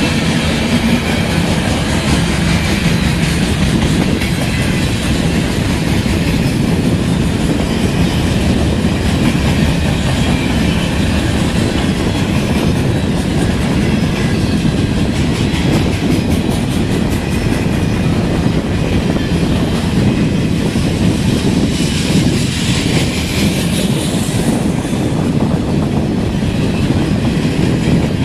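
CN freight train rolling past at close range, its wheels clacking steadily over the rail joints.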